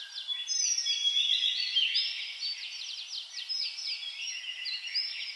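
Birdsong ambience: many small birds chirping and twittering at once in quick, high, overlapping notes, over a faint hiss.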